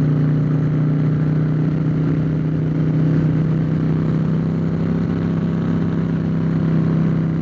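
Harley-Davidson Fat Boy's Twin Cam V-twin running at a steady cruise in gear, its note holding one pitch. It has Stage 2 modifications: Vance & Hines Big Radius dual exhaust, Screamin' Eagle Heavy Breather intake and Williams Motowerx horsepower cams.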